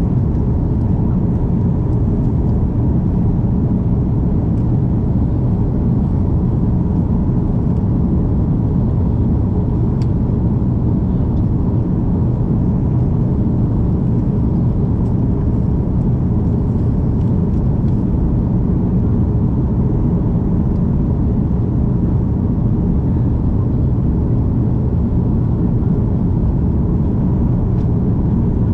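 Steady low rumble of an Airbus A330's jet engines and rushing air, heard from inside the passenger cabin in flight.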